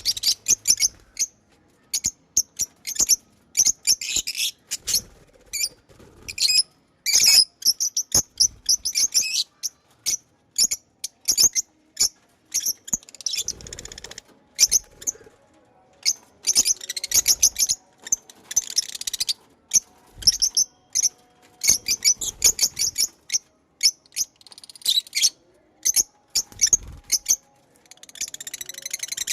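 Pet lovebirds chirping: many quick high-pitched chirps and rapid runs of chirps, broken by short pauses.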